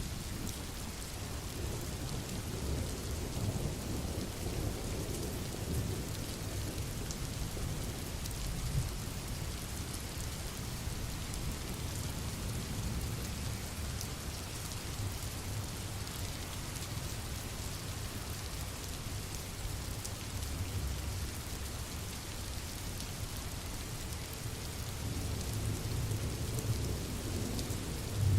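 Steady rain falling, with a low rumble that swells a few seconds in and again near the end.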